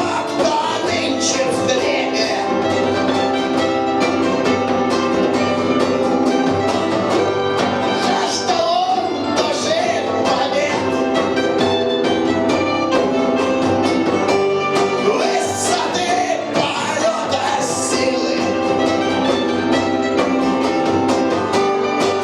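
Live punk rock band playing a song, loud and steady, with a voice singing at times.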